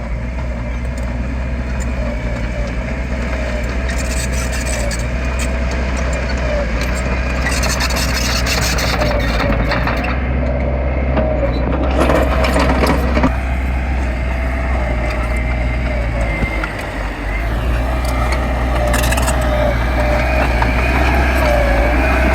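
Diesel engine of heavy earthmoving machinery running under load, a steady low drone with a wavering whine whose pitch rises and falls, and stretches of rough scraping noise about eight and twelve seconds in.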